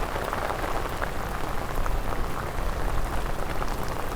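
Steady rain falling, an even hiss with many small drop taps.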